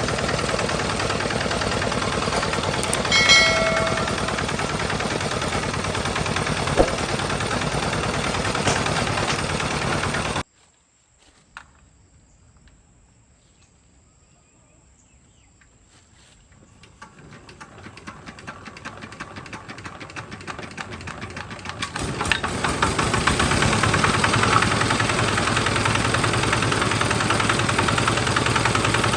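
Homemade farm tractor's engine running with rapid, even firing pulses, with a short pitched tone about three seconds in. The sound stops abruptly about ten seconds in, leaving near quiet. From about seventeen seconds the engine sound builds back up gradually until it is running loudly again.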